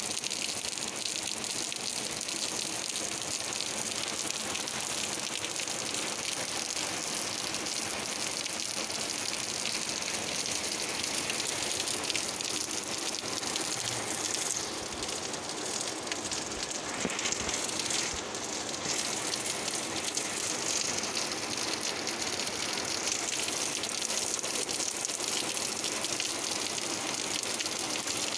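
Heavy rain pouring down onto a concrete slab and wet pavement, a dense steady hiss.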